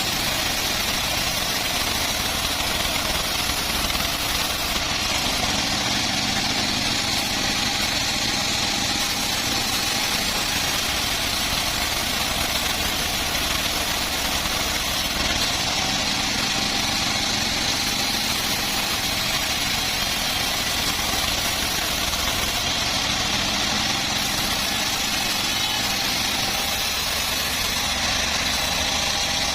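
Homemade bandsaw sawmill running steadily: an even, unchanging machine drone.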